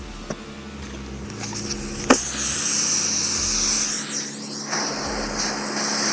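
Dryer vent cleaning equipment running: a steady motor hum under a rushing, airy hiss, with one sharp knock about two seconds in.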